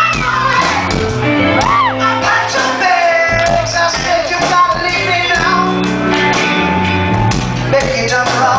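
Rock band playing live, with a singer's voice sliding up and down over the band, heard through the echo of a large hall.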